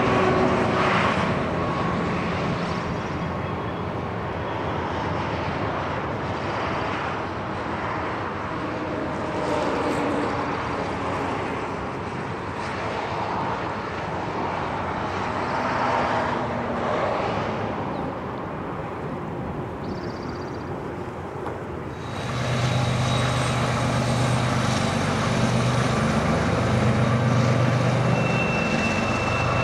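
Freight train running along the line, a steady rumble of wheels on rail. About three-quarters of the way in, a louder, steady diesel locomotive engine drone comes in suddenly, and a thin high squeal sounds near the end.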